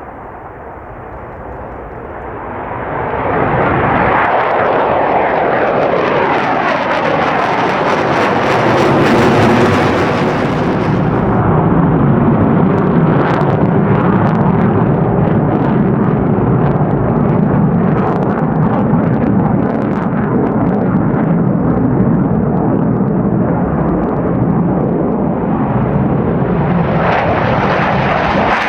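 F-4EJ Phantom II jet flying past with its twin J79 turbojets, loud: the sound builds a few seconds in, its pitch falls as the jet goes by, then a steady jet roar holds.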